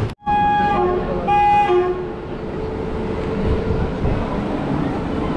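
Two short blasts of a train horn, then the steady rumble of the train running on the track.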